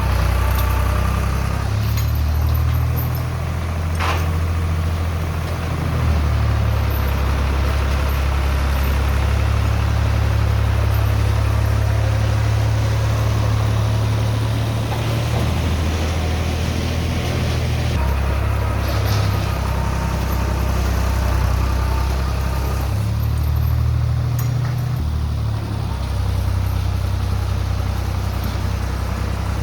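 Tractor engine running under changing load while spreading gravel, its pitch shifting up and down several times. A single sharp click about four seconds in.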